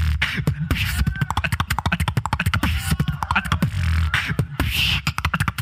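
Beatboxing through a microphone: a fast run of sharp clicks and hi-hat and snare strokes, several a second, over a deep sustained bass tone.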